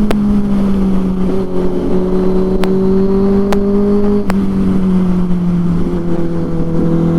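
Benelli 600i inline-four motorcycle engine running through its aftermarket IXIL exhaust, holding a steady note whose pitch eases slowly down. A few sharp clicks are heard over it.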